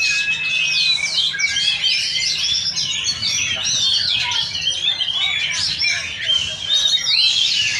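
Several oriental magpie-robins (kacer) singing at once in a dense, overlapping stream of rapid, varied notes that rise and fall without a break.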